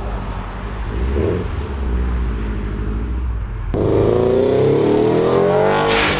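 A motor vehicle engine running steadily. About four seconds in it changes abruptly to a rising engine note as it revs up and accelerates.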